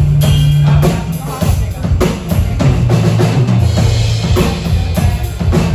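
Band playing during a sound check: a drum kit struck in a steady beat over held low bass notes that shift in pitch about a second and a half in.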